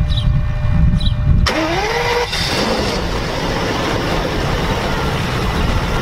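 Car engine running with a deep rumble and a short high chirp repeating a little under once a second; about a second and a half in the sound changes abruptly to a rising whine over a steady rush.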